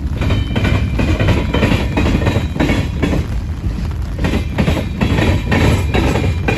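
Freight cars of a manifest train rolling past, a steady low rumble with the wheels clacking over rail joints every so often.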